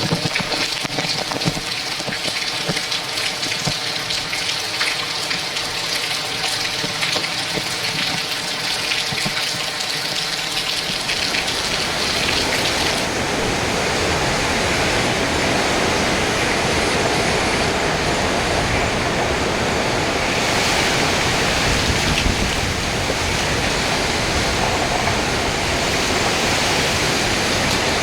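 Hurricane rain and wind: a steady, dense rushing hiss that grows louder and fuller about eleven seconds in, with low rumble from the wind.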